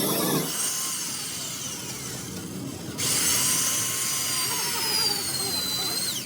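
A power tool running with a high whine that slowly drops in pitch. The sound changes abruptly about three seconds in.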